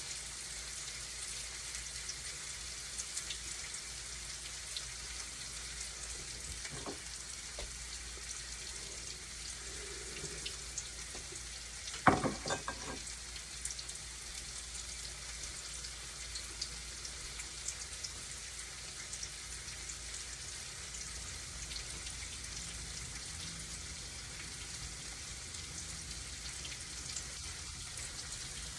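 Tofu frying in hot oil in a pan, a steady sizzle with scattered small pops and crackles as it browns. A sharp knock, about twelve seconds in, is the loudest sound.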